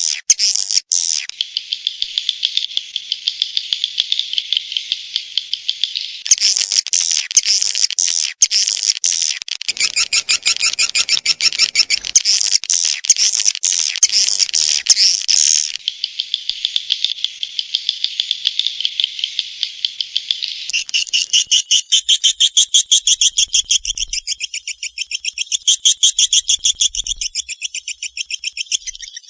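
Swiftlet call lure recording: dense, rapid chittering chirps and trills, high-pitched and repeating many times a second. Around two-thirds of the way in it changes to a more evenly pulsed chirping.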